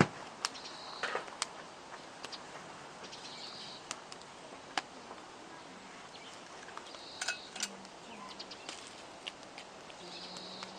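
Wood campfire crackling, with irregular sharp pops, the loudest right at the start. Birds call briefly a few times in the background.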